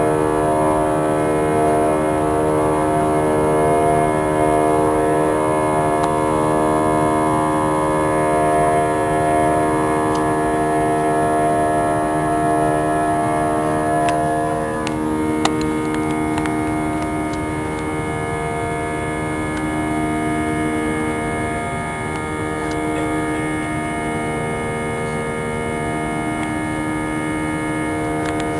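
Airbus A320's twin jet engines heard from inside the cabin: a steady drone of several held tones over a low rumble, with a few light clicks a little past the middle.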